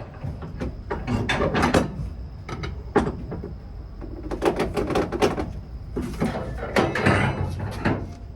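Irregular knocks, clanks and rattling, in several clusters over a steady low rumble: gear or doors being handled.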